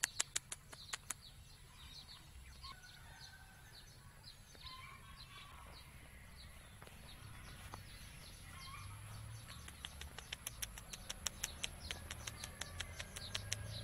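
Small birds chirping, with short falling calls through the middle. Runs of rapid, sharp ticks come at the very start and again from about two-thirds of the way in.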